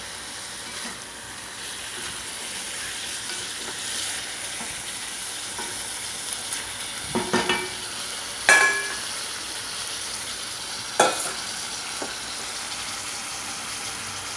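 Chicken pieces sautéing in a pot with a steady sizzling hiss as they are stirred with a spatula. Four knocks against the pot come in the second half, the loudest ringing briefly.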